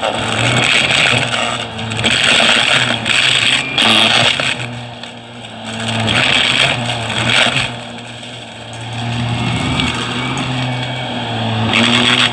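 Vacuum cleaner running with a steady motor hum, its airflow hiss swelling and fading every second or two.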